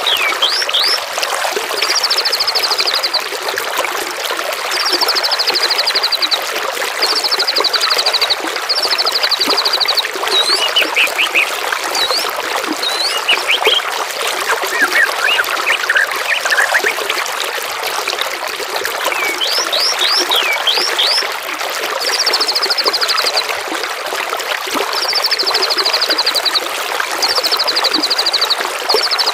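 Songbirds calling over steadily trickling water. Short buzzy trills repeat about every two seconds, mixed with quick high whistled notes.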